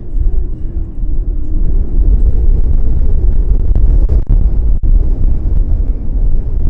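Strong wind buffeting the microphone with a heavy rumble. Under it, the faint steady drone of an F3A pattern plane's propeller can be heard in the first second or so before the wind covers it.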